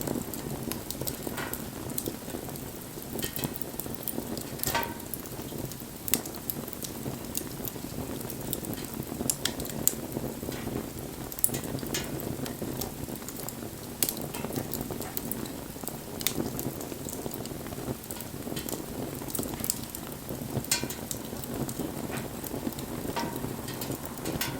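Wood fire burning: irregular sharp crackles and pops over a steady low rushing of the flames.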